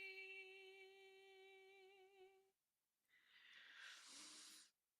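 A woman's voice holding one long hummed healing tone, steady in pitch with a slight waver, which stops about halfway through. A breath follows about a second later.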